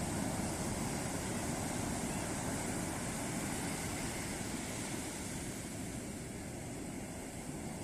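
Ocean surf breaking and washing up on a beach, a steady rushing noise that eases slightly in the second half.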